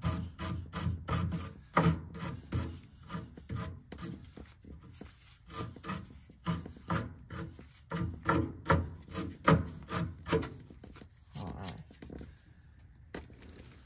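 Rhythmic back-and-forth scrubbing of the threaded end of a furnace gas pipe, about three rasping strokes a second, cleaning off the old pipe dope before a new gas valve goes on. The scrubbing stops near the end.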